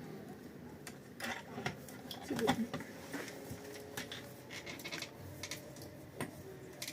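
Scattered light clicks and knocks of objects being handled, with a brief voice-like sound about two and a half seconds in.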